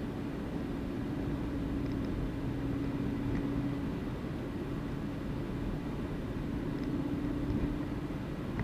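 A car driving at a steady speed: a continuous low rumble of engine and road noise with a faint drone.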